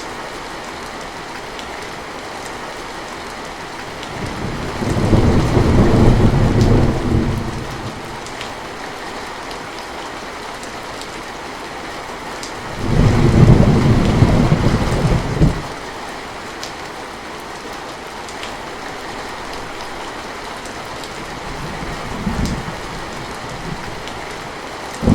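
Steady rain with two rolls of thunder: a low rumble starting about four seconds in that lasts around three seconds, then a second, loud one about thirteen seconds in. A fainter rumble follows near the end.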